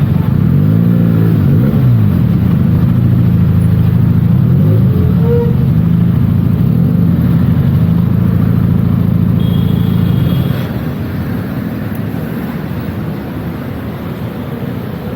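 Benelli TNT 300's parallel-twin engine with its stock exhaust, running under way as the bike is ridden. Its pitch rises and falls in the first couple of seconds, then holds steadier. About ten seconds in the engine note drops away and the sound becomes quieter.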